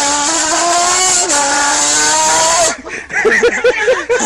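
A man's voice imitating a motorbike: one long buzzing tone whose pitch climbs and drops in steps like gear changes, breaking off nearly three seconds in. Short choppy vocal sounds follow.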